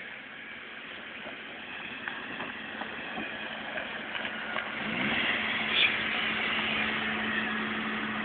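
Opel Corsa 1.2 four-cylinder engine revving for a burnout, growing louder; about five seconds in the revs climb and are then held at a steady high pitch.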